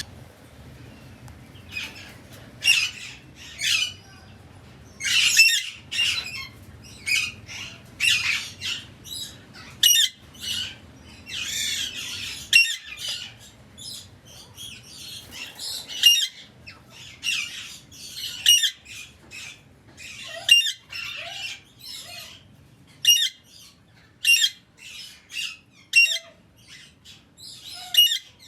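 Birds giving short, high calls over and over, one or two a second, some louder and some fainter.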